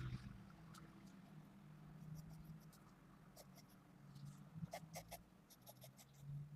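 Faint scratching of a 2B mechanical pencil lead on paper during sketching, with short quick strokes that bunch together past the middle.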